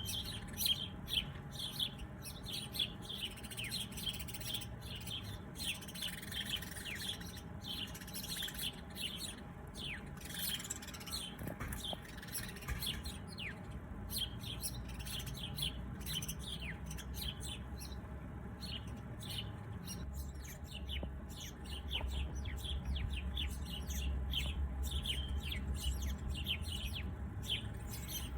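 Many small birds chirping in quick, short, downward-sweeping notes, overlapping continuously. A low rumble underneath grows louder about two-thirds of the way through.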